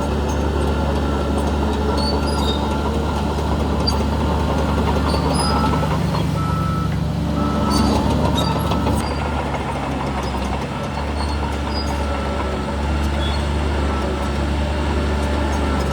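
Heavy diesel earthmoving machinery running steadily with a deep engine hum. A reversing alarm beeps several times in short, evenly spaced pulses partway through.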